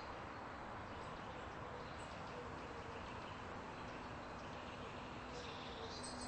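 Quiet background ambience: a steady low hiss and hum with faint, scattered bird chirps.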